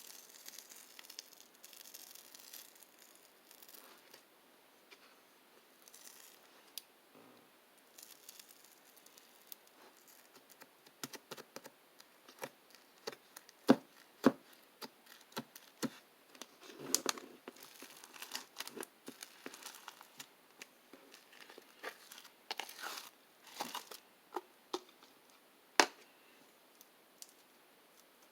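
Close-up handling of a crinkly material like paper: irregular tearing and crinkling noises with scattered sharp clicks, the loudest clicks about halfway through and again near the end.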